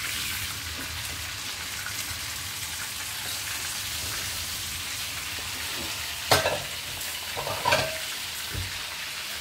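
Chicken pieces frying in oil in a wok, a steady sizzle. Two sharp knocks about six seconds in and again a second and a half later.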